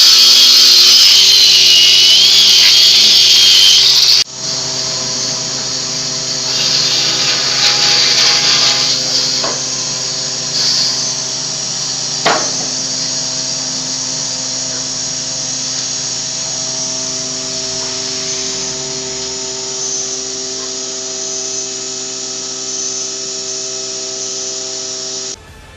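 Power tool working wood: a loud high whir for about four seconds, then after an abrupt cut a quieter steady motor hum with a few knocks, which stops suddenly near the end.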